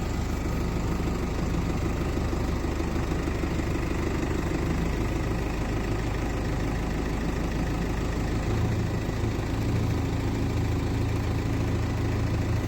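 Tractor engine running steadily at low revs, its pitch shifting a little about a third of the way in and again after about eight seconds.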